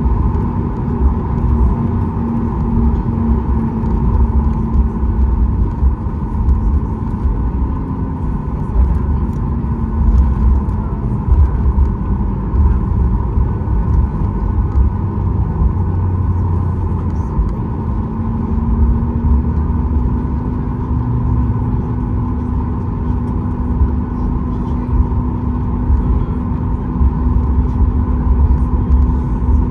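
Steady cabin noise inside a Boeing 737 MAX 8 on the ground: a constant engine hum with steady tones, over an uneven low rumble from the aircraft rolling along.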